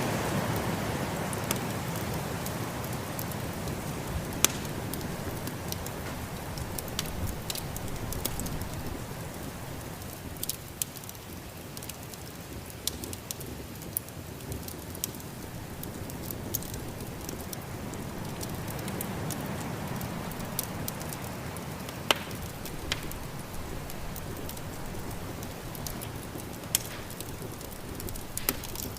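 Wood fire crackling, with sharp scattered pops, over a rushing storm wind that fades down partway through and swells up again.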